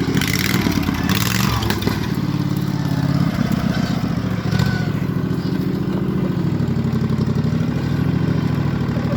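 Racing lawnmower's engine running hard at high revs, its pitch stepping up and down, as it strains to drag a chained log. There are rushes of noise in the first couple of seconds.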